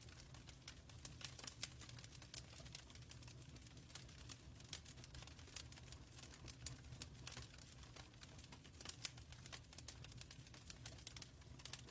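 Faint fire crackling in a fireplace: irregular sharp pops and snaps over a steady low rumble.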